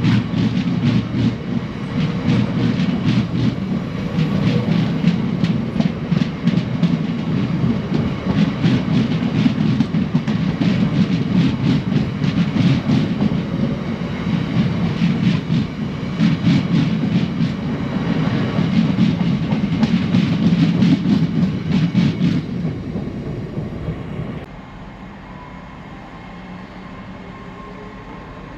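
A train passing, its wheels clicking rhythmically over rail joints above a heavy rumble. The sound drops away abruptly about 24 seconds in, leaving a quieter steady background.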